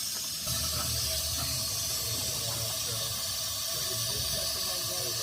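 Steady steam hiss from a live-steam model locomotive, with a low rumble that comes in about half a second in.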